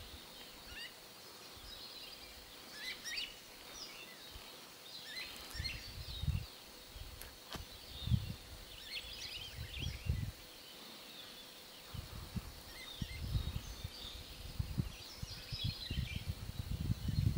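Small birds chirping and calling on and off in the surrounding forest, short high chirps. Low rumbles on the microphone come and go, more often in the second half.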